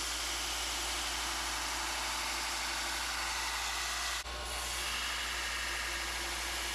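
Belt sander running steadily with the steel of a Damascus knife blade held against the abrasive belt, a continuous grinding hiss over a low motor hum. The sound shifts abruptly about four seconds in.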